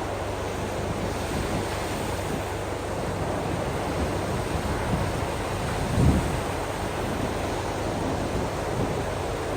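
Ocean waves washing on a shore, a steady rushing noise, with wind buffeting the microphone and one brief low thump about six seconds in.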